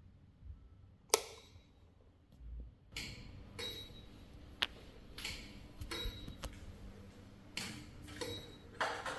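Ceiling fan's control module clicking on and off again and again, about ten sharp clicks irregularly spaced from about a second in, some with a faint short beep. The fan is cycling on and off instead of running, a fault the owner traces to a clicking capacitor.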